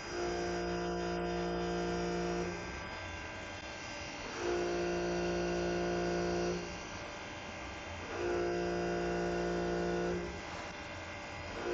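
CNC lathe whining electrically at a fixed pitch. The whine comes on for about two seconds and stops for about one and a half, three times over, with a fourth starting at the end, in a regular machining cycle.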